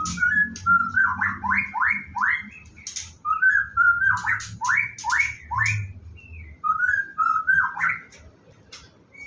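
White-rumped shama singing: three phrases of clear whistles, each breaking into a quick run of four or five rising notes, with sharp high ticks between them.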